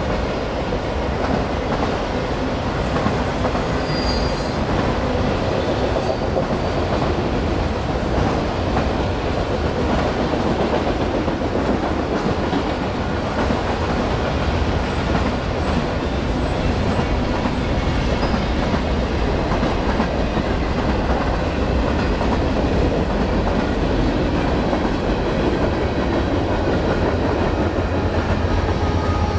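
Union Pacific mixed freight train's cars rolling past on the rails: steady wheel noise with clickety-clack over the rail joints and faint wheel squeal. A low steady hum builds near the end.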